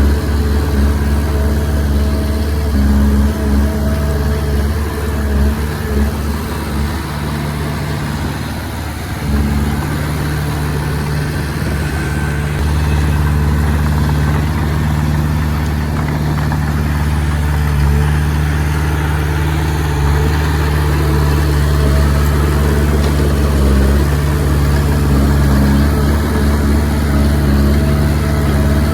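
Komatsu D20P bulldozer's diesel engine running steadily, its note easing briefly about nine seconds in before settling back.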